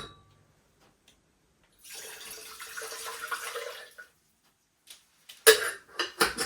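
Water running into a vessel for about two seconds, a steady hiss with a held tone. A few sharp clinks and knocks follow near the end, like dishes or a mug being handled.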